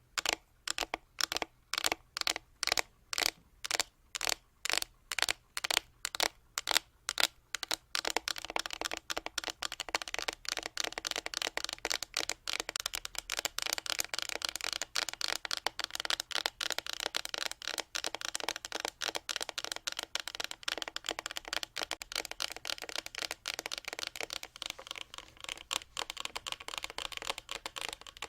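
ASMR tapping: slow, evenly spaced taps about two or three a second, then from about eight seconds in, fast continuous tapping.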